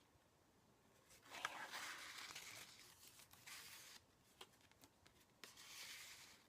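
Faint rustling of paper as the pages of a handmade journal are turned and handled. A longer rustle starts with a small click about a second in, and a shorter one comes near the end.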